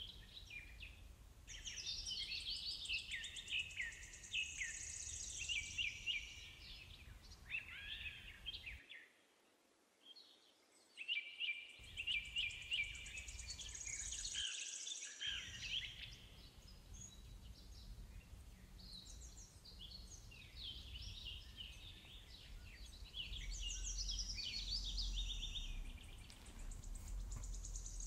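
Birds singing and chirping in quick, varied phrases over a low steady background rumble. The sound cuts out twice near the middle, once for about three seconds and once for about a second.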